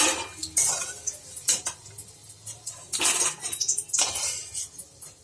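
A metal cooking utensil clattering against a kadhai and a plate in a series of sharp clinks as fried chicken pakoras are lifted out of the oil onto a plate.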